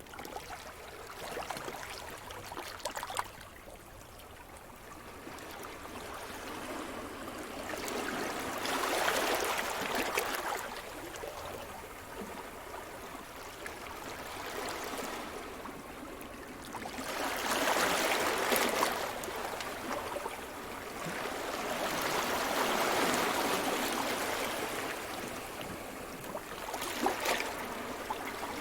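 Sea surf: waves swell and break on the shore in slow surges, the loudest about nine and eighteen seconds in, with the wash in between and a few sharp clicks.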